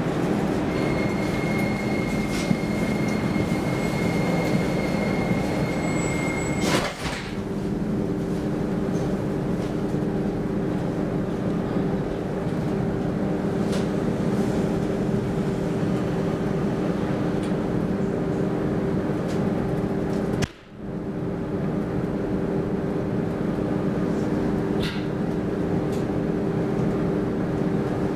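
Cabin of an X10 electric commuter train at a station: a steady high beep for about six seconds ends in a thud as the sliding doors shut. Then a steady electric hum and running rumble follow as the train pulls away.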